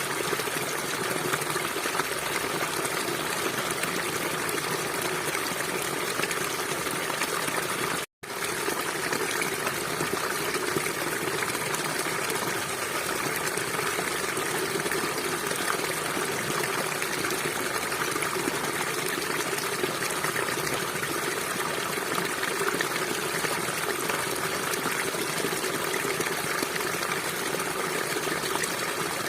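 River water flowing steadily in a dense, even rush, with a momentary dropout to silence about eight seconds in.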